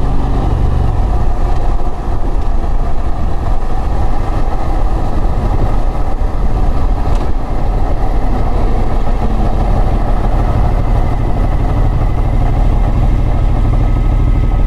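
Motorcycle on the move, its engine running under a dense, loud rumble of wind noise. The engine's steady note fades about a second in and comes back clearly near the end.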